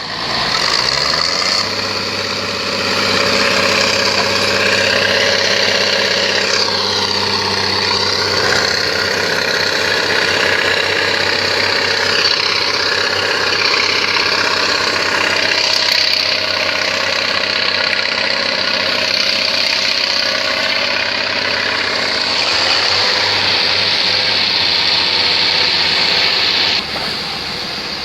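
Boat engine running steadily at a constant speed. It comes in about half a second in and cuts off abruptly near the end.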